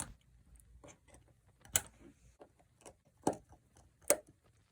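Small sharp clicks and taps of tools and parts being handled while an iPhone SE is reassembled: about five irregular clicks, the loudest about two seconds in.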